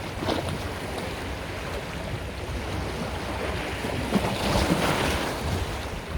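Sea waves washing in continuously, one larger surge swelling about four seconds in and easing off near the end.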